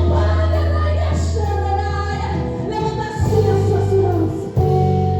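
Christian praise song: a woman singing over accompaniment with long held bass notes that shift every second or two.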